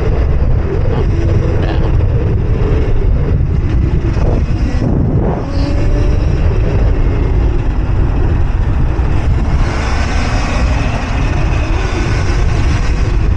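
Wind rushing over the microphone of a rider on a moving electric mini bike, a loud, steady low rumble. About ten seconds in, a brighter hiss joins it.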